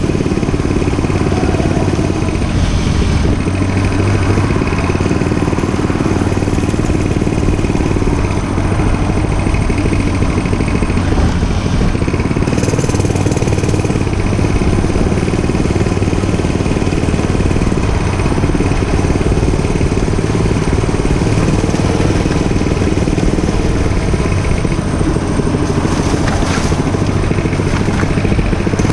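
Dirt bike engine running steadily through the ride, with no sharp breaks.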